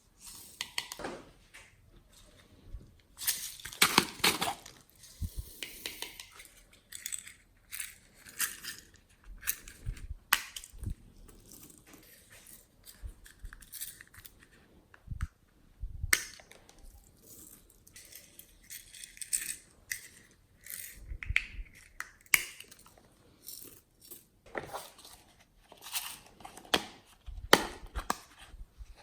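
Glossy slime being kneaded and squished by hand, with irregular sticky clicks and crackles.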